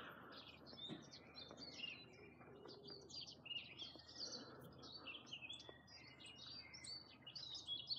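Faint birdsong: many short chirps and trills from songbirds over a quiet outdoor background.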